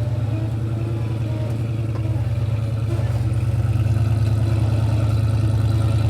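Off-road 4x4 engine running at low, steady revs, getting slightly louder over the first few seconds.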